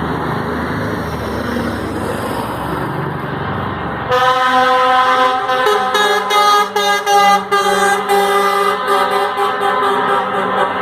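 Trucks running, then about four seconds in a truck's air horns start sounding loudly, several notes at once. They are held long, with a couple of brief breaks.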